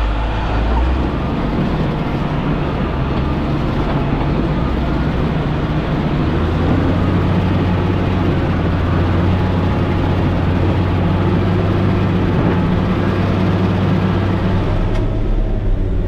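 Motor grader's diesel engine running steadily under work, its note stepping up and growing stronger about six seconds in.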